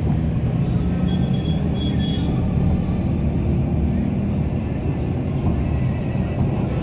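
Steady rumble of a road vehicle on the move: engine and tyre noise at an even speed, with no marked rise or fall.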